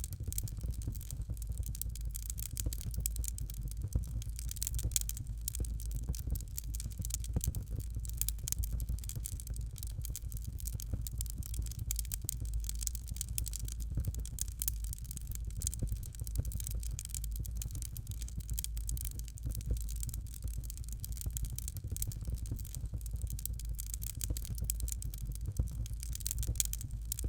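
Fireplace fire crackling: a dense run of small irregular pops and snaps over a steady low rumble.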